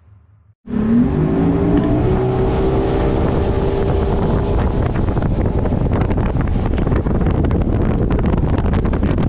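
A bass boat's outboard motor speeding up, its pitch rising for about a second and then holding steady at running speed. Wind buffets the microphone throughout.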